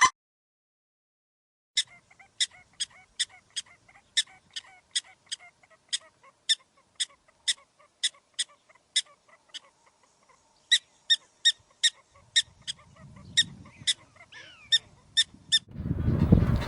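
A bird giving short, sharp, high calls, about two to three a second, in two runs with a gap of about a second between them.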